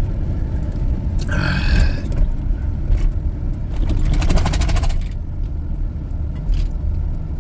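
Steady low rumble of a car driving, heard inside the cabin. A short scrape comes about a second in, and a quick run of fine clicks about four seconds in.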